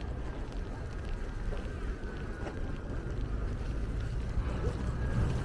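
Steady low rumble of wind buffeting the microphone outdoors in a snowstorm.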